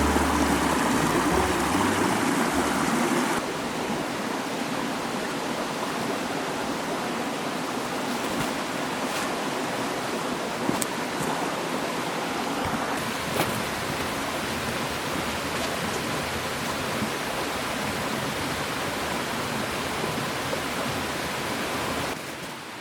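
Mountain stream flowing steadily. It is louder for the first three seconds, then settles, with a couple of faint clicks.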